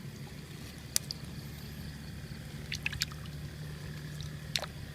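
Water trickling and dripping, with a few sharp splashes or clicks about one, three and four and a half seconds in, over a steady low hum.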